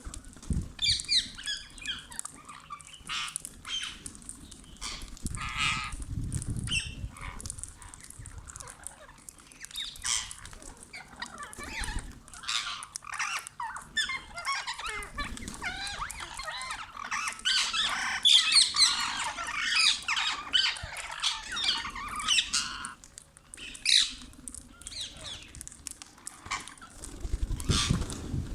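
Rose-ringed parakeets (Indian ringnecks) squawking in a series of short, shrill calls, rising to a dense stretch of overlapping chatter a little past the middle.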